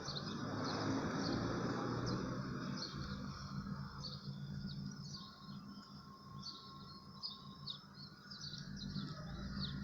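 Small birds chirping in short, scattered high calls over a steady background hiss that is louder during the first few seconds.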